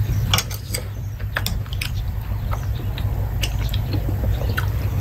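A person chewing food close to the microphone, with short, scattered clicks of chopsticks against a metal pan, over a steady low rumble.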